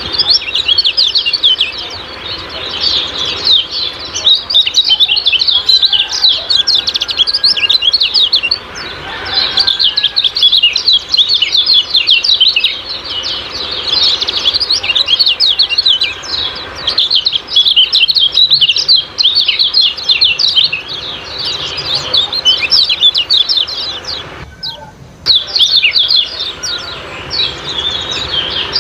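Kecial kuning white-eyes giving rapid, continuous high chirping and chattering in the 'ciak-ciak' style, with one brief pause about three-quarters of the way through.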